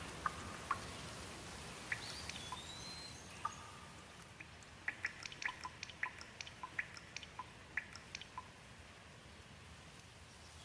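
Rain dripping: a quick run of separate water drops falling, most of them between about four and eight seconds in, over a soft steady patter of rain. A bird gives one short rising-then-falling whistle about two seconds in.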